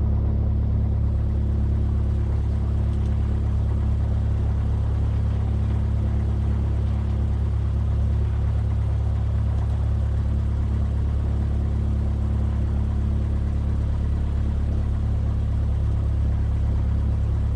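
Cessna 172F's Continental O-300 six-cylinder engine running at low taxi power, a steady low drone.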